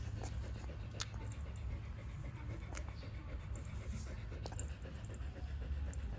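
A dog panting over a steady low rumble, with a few sharp clicks about one, three and four and a half seconds in.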